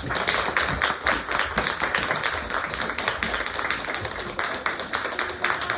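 Audience applauding: dense, steady hand-clapping that starts suddenly and keeps going.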